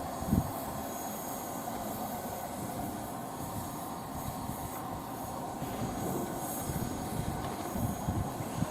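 A train moving along the track: a steady running noise of wheels on rails.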